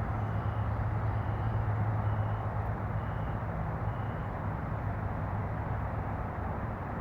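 Low vehicle engine hum over steady background traffic noise, the hum strongest in the first few seconds and then easing off. Five faint short high beeps sound about once a second during the first four seconds.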